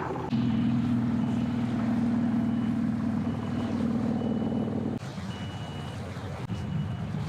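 A vehicle engine running hard with a steady drone for about five seconds, then easing off. A high beeping sounds on and off throughout, like a reversing alarm.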